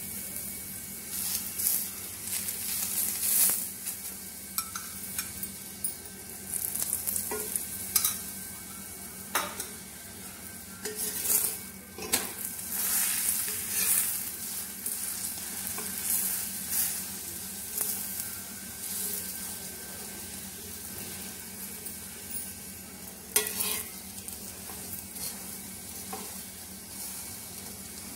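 Paratha frying in ghee on a flat tawa griddle, a steady sizzle, with a flat metal spatula pressing and scraping it on the pan now and then.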